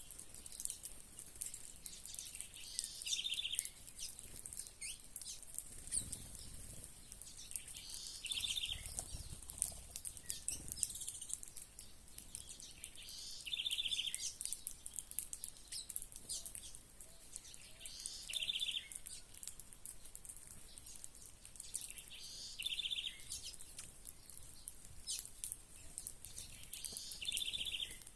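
Small songbirds calling: one bird repeats a short trilled call about every five seconds over steady high-pitched chirping from others.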